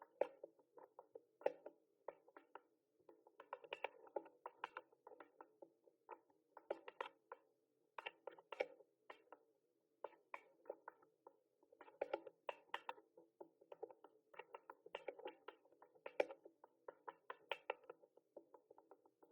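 Typing on a mechanical keyboard: quick, irregular runs of key clicks and clacks, several a second, broken by short pauses.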